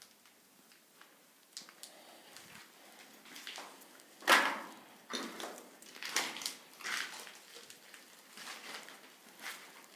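Irregular footsteps and scuffs on a debris-strewn floor, with one louder crunch about four seconds in.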